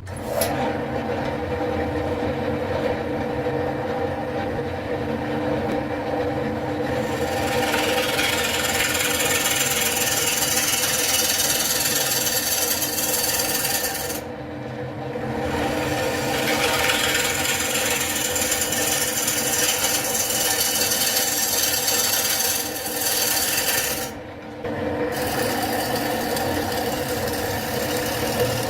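Wood lathe motor running with a steady hum while a tool works the spinning wood, giving a loud scraping hiss that comes in about a quarter of the way through and stops briefly twice.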